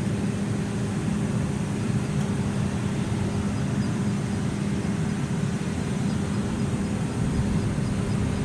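Airbus A321neo's Pratt & Whitney PW1100G geared turbofans running steadily, a continuous jet rumble with a low hum.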